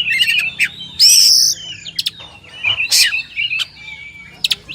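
Oriental magpie-robin (kacer) singing: quick chattering, warbled phrases with a loud, harsh buzzing note about a second in and sharp rising whistles near the end.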